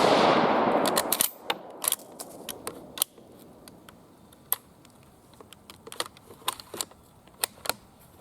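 Echo of a Type 38 Arisaka rifle shot rolling away over the first second, followed by a run of short sharp metallic clicks and clacks at irregular intervals, the rifle's bolt being worked to eject the spent case and chamber the next round.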